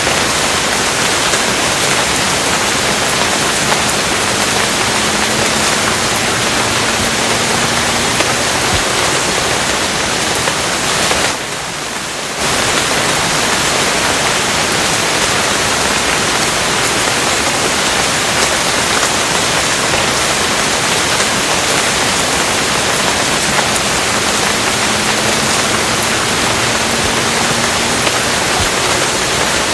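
Steady heavy rain: a dense, even hiss with a short dip in level about twelve seconds in.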